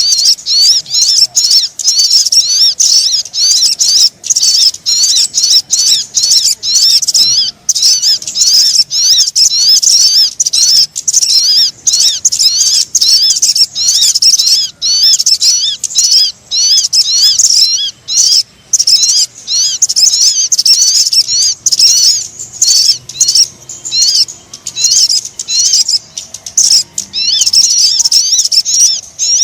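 Sogon birdsong played as a bird-lure (pikat) call: loud, rapid high chirping notes, many a second, running on with only brief gaps.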